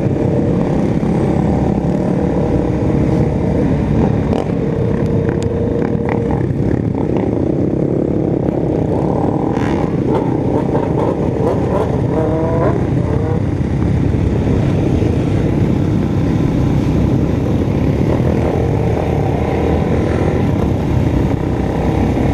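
Motorcycle engine running while riding, its pitch shifting up and down as it revs, with brief rising revs about halfway through.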